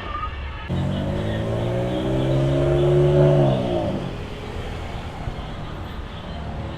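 Car engine revving: the pitch climbs and holds for a couple of seconds, then drops away as the throttle is released.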